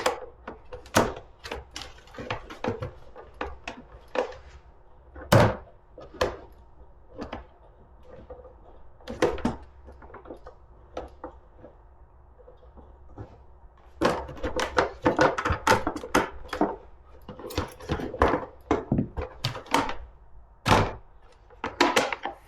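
Irregular clicks, knocks and clatter of hand tools and metal parts being handled while a Razor MX650 electric dirt bike is taken apart, with a dense run of rapid clatter from about two-thirds of the way in.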